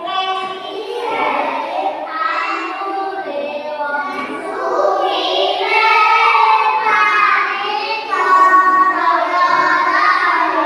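A child singing a song, with held, changing notes throughout.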